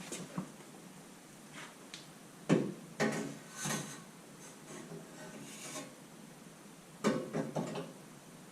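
Parts of a new aftermarket side-by-side muffler being handled: irregular clunks, knocks and rubbing. The sharpest knocks come about two and a half and three seconds in, and there is a quick run of knocks near the end.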